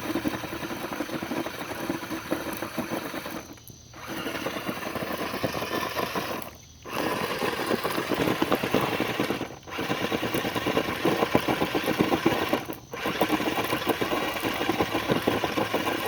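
R/C monster truck's motor running hard with its wheels spinning in loose rocks, a steady rattling buzz with gravel clattering. It cuts out briefly four times, about every three seconds, as the throttle is let off and opened again.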